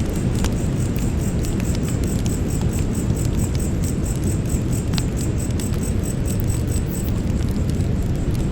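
Campfire burning, with scattered sharp crackles and pops from the wood over a steady low rush, one louder pop about five seconds in. Insects chirp throughout in a fast, high-pitched pulse.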